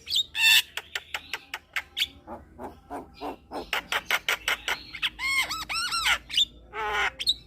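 Javan myna (jalak kebo) singing a busy chattering song: rapid sharp clicks and harsh notes, then a run of arched, ringing whistles about five seconds in, and a harsh rasp near the end.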